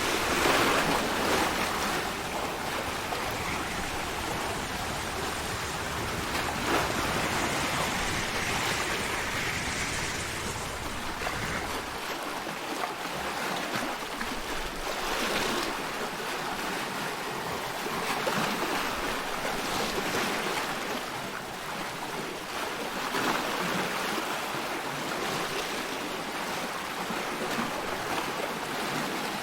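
Sea surf washing: a continuous hiss of water that swells and eases every several seconds, with a low rumble under it that drops away about twelve seconds in.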